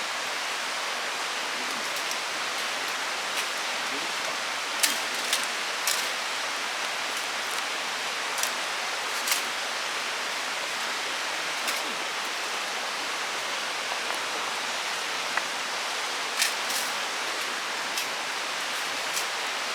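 Steady rushing of a mountain river, with a dozen or so short sharp clicks or pops scattered over it.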